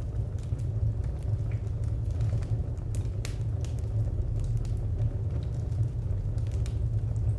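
Wood fire burning, with frequent small crackles and pops over a steady low rumble.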